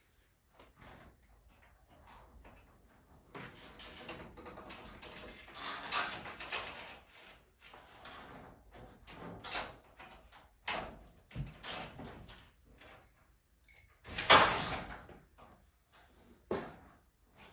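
Irregular knocks, clicks and scraping of hand work on garage door spring hardware, with one loud clatter about 14 seconds in.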